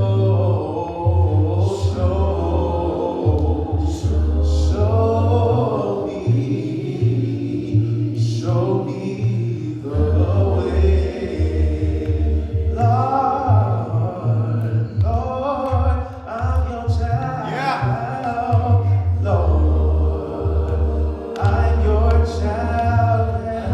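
Church congregation singing a slow gospel hymn together over sustained low bass notes, with long held sung phrases.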